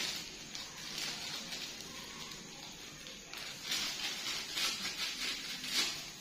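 Irregular rustling and scraping noise in uneven bursts, loudest near the start and again in the second half.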